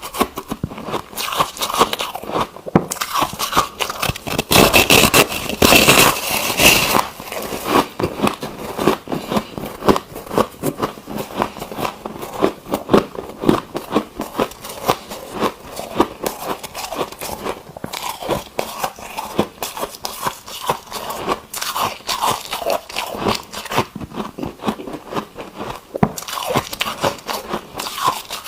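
Ice being bitten and chewed close to the microphone: a dense, irregular run of sharp crunches and crackles, loudest for a few seconds about five seconds in.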